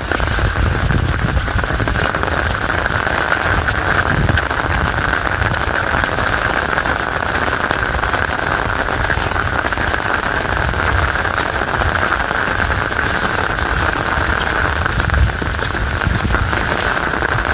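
Heavy rain falling in a downpour: a steady hiss thick with the ticks of individual drops, over an uneven low rumble.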